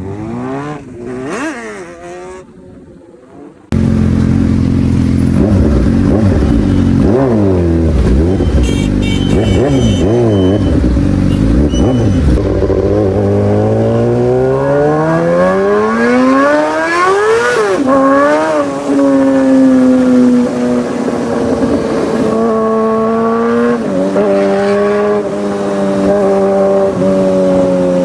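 Superbike engine revving in quick up-and-down blips, then accelerating hard in one long rising sweep, dropping sharply at a gear change about two-thirds of the way in, and running on at high revs with a few smaller shifts.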